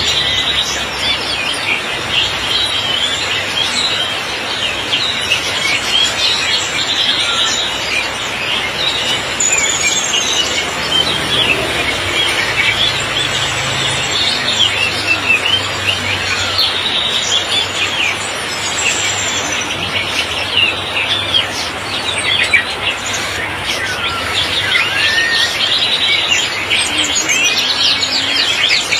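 Dense chorus of many songbirds in a bird kiosk chirping and twittering at once over the steady hiss of heavy rain.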